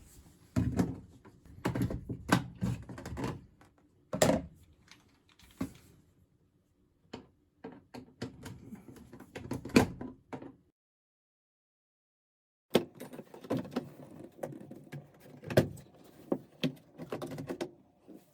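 Irregular knocks, thunks and light rattles of hands handling the parts of a drum washing machine, with a stretch of dead silence about eleven seconds in.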